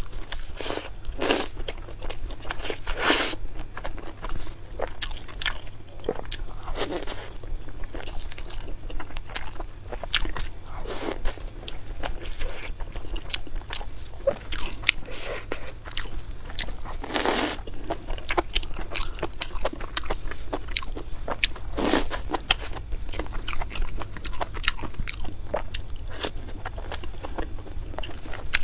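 Close-miked mouth sounds of a person biting and chewing spicy braised meat pulled off skewers: irregular smacks and clicks, with a louder bite every few seconds.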